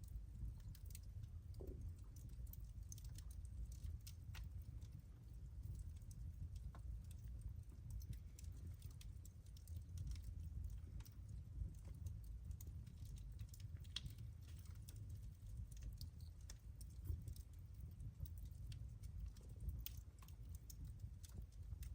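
Wood fire crackling: irregular sharp pops and snaps scattered over a low, steady rumble of the burning fire.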